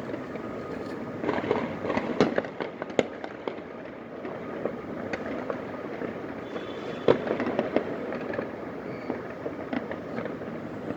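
Fireworks going off across a city at night: a steady distant crackle with many sharp pops and bangs at irregular intervals. The pops cluster about one to three seconds in, and there is one louder bang about seven seconds in.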